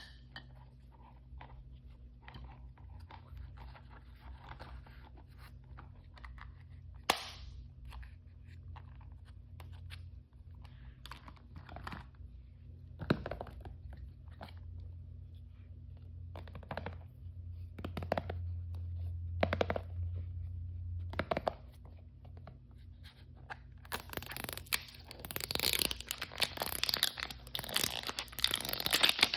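Hands handling crinkly plastic toy packaging: scattered small taps and rustles, one sharp click about seven seconds in, then a dense stretch of crinkling and tearing near the end as a wrapper is torn open.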